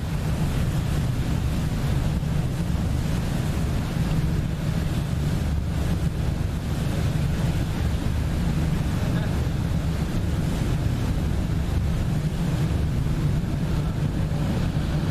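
Steady low rumble of a passenger boat under way, with wind blowing across the microphone and the wash of water.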